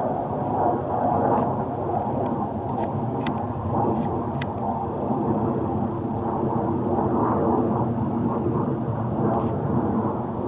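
Wind blowing over the microphone outdoors, a steady rushing rumble that swells and eases.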